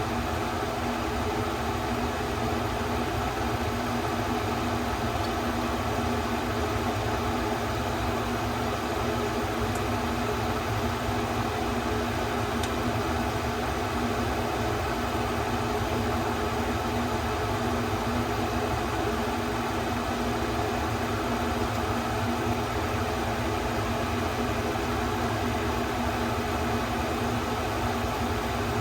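Tofu pieces frying in oil in the Instant Pot's inner pot, a steady sizzle with a low steady hum under it.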